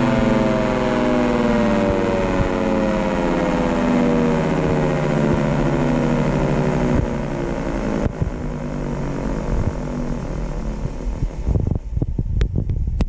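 Outdoor warning siren winding down after a run, its pitch falling slowly and steadily as it coasts and fades. Near the end there is wind buffeting on the microphone with a few sharp clicks.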